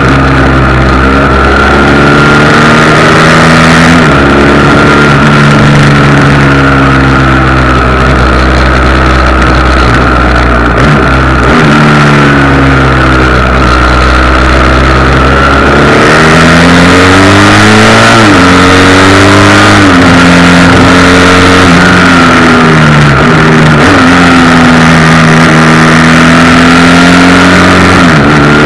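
Motorcycle engine running under way, its pitch dropping and climbing again several times as the revs change between gears. A steady high buzz runs through it, the vibration rattle of the bike-mounted camera.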